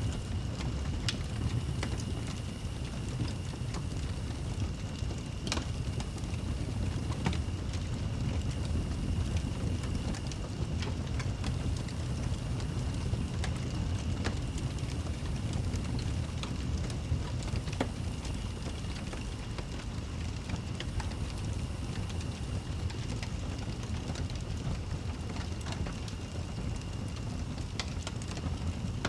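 Log fire crackling, with scattered sharp pops over a steady low rumble.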